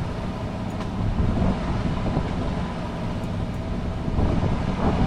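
Fishing boat's engine running with a steady low rumble, under wind and sea noise.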